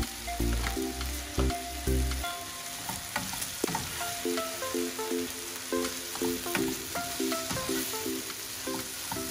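Chicken and vegetables sizzling as they fry in a non-stick frying pan, stirred with a slotted metal spatula that gives short scrapes and taps against the pan. Background music with a repeating melody plays over it; its deep bass drops out about two seconds in.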